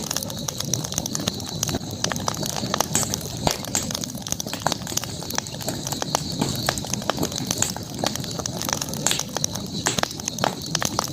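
Campfire burning, its wood crackling with frequent sharp, irregular pops, over a steady high-pitched background hum.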